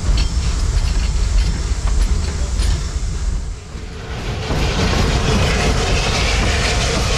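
Narrow-gauge railway carriages rolling along the track with a steady low rumble and the clicks of the rails. About four and a half seconds in, the sound turns to a denser, louder rattle as the train rounds a curve.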